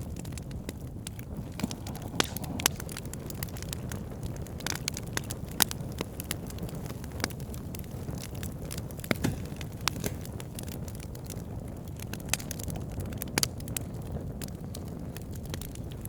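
Wood campfire burning, with a steady low rumble of flames and frequent irregular crackles and sharp pops of burning wood.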